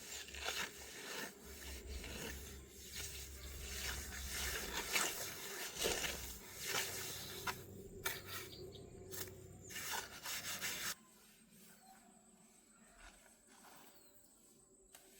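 Repeated rough scraping and rubbing strokes that stop abruptly about eleven seconds in, leaving only a faint background.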